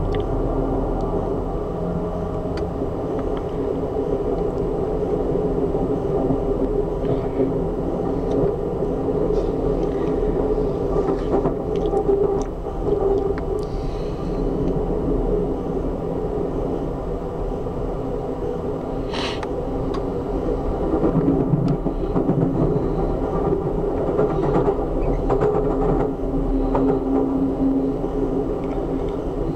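Steady rumble of a moving passenger train heard from inside the coach, wheels running on the rails, with a few sharp clicks along the way.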